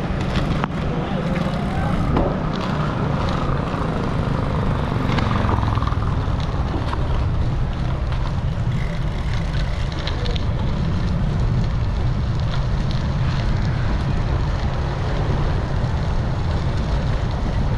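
Wind buffeting the microphone of a GoPro on a moving bicycle: a steady low rumble, with scattered faint clicks.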